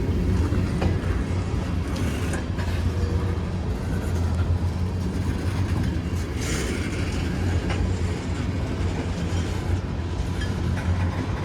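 Freight train cars rolling slowly past with a steady low rumble and scattered wheel clicks over the rail joints.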